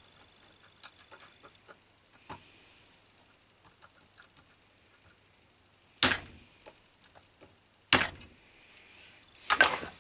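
A small hammer striking three sharp blows about two seconds apart, each with a short ringing tail, after a few seconds of faint clicks and handling of small parts.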